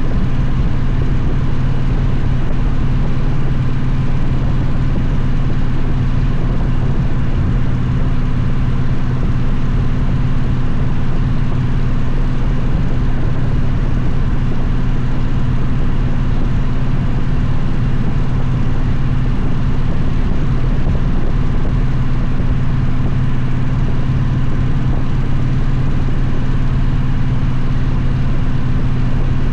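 Victory motorcycle's V-twin engine running at a steady cruising speed, a constant low drone with wind and road noise over it.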